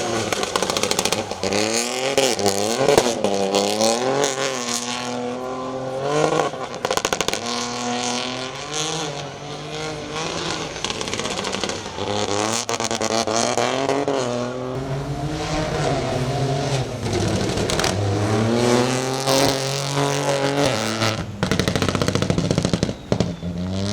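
Peugeot 208 Rally4 rally car's turbocharged three-cylinder engine revving hard at speed. Its pitch climbs and drops again and again as it shifts up and down through the gears, with sharp cracks along the way.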